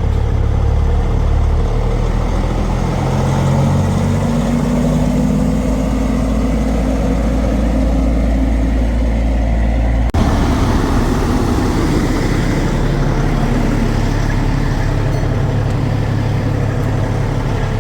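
Diesel semi-truck engine running and pulling away, its pitch rising over the first few seconds. About ten seconds in the sound changes abruptly to a steady engine run.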